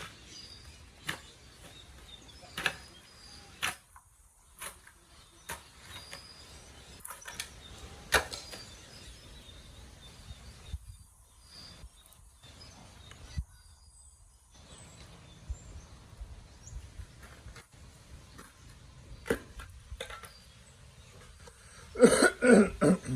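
Sharp knocks and clicks at irregular intervals, a few seconds apart, over a faint steady outdoor background. Near the end, a short loud burst of a person's voice, like a cough or a call.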